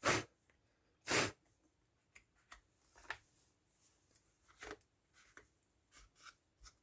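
Small handling noises on a workbench: two short rustling bursts about a second apart, then scattered light clicks and taps.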